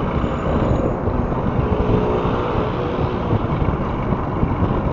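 Motorcycle engine running while riding in city traffic, with wind buffeting the microphone.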